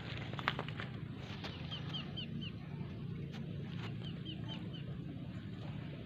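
A bird chirping in quick runs of four or five short high notes, twice, over a steady low hum. A few sharp clicks and knocks, the loudest about half a second in.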